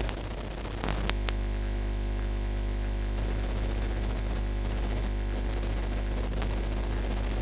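Electrical mains hum and hiss picked up on a computer's microphone input, with a few sharp clicks about a second in as the hum steps up louder and then holds steady.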